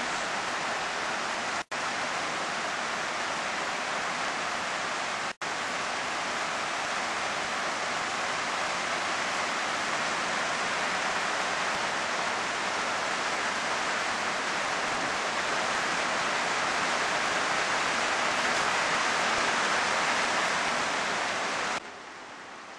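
Heavy downpour: a steady, dense hiss of pouring rain on roofs and streets. It cuts out for an instant twice in the first six seconds and drops to a fainter hiss near the end.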